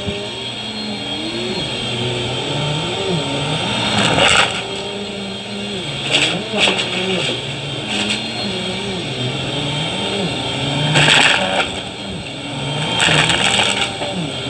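Vacuum cleaner running, its motor pitch rising and falling as the load changes with quick strokes. Several brief surges of rushing air and suction come through.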